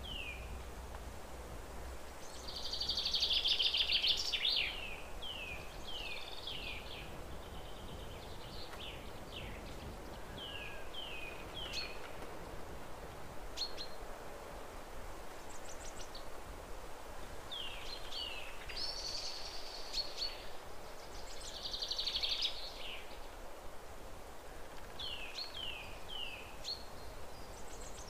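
Birds singing: short downward-sliding chirps in twos and threes, with a few louder buzzy trills, over a steady faint hiss.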